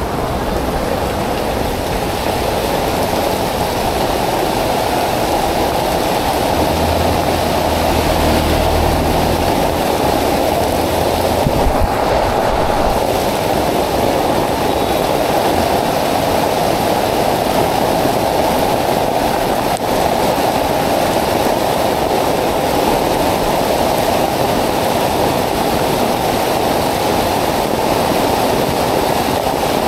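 Heavy tropical downpour: a steady, loud rush of rain pouring onto the street and nearby surfaces.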